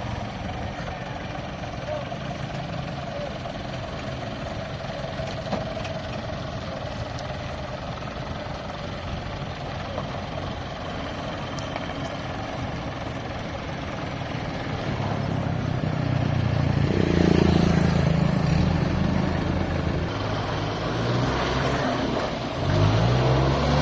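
An engine running steadily, louder for the last third or so.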